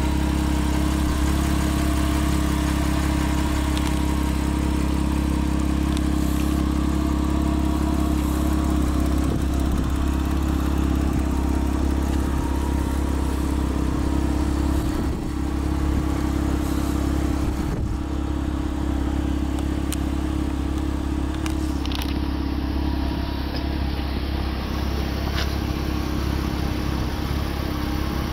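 Porsche Boxster RS60's flat-six engine idling steadily, with a few faint clicks.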